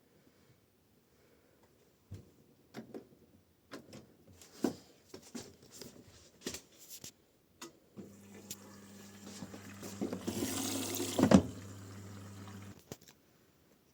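Scattered clicks and knocks, then a washing machine's water inlet valve hums steadily as water runs in, with a louder rush of water partway through. The hum cuts off about a second before the end.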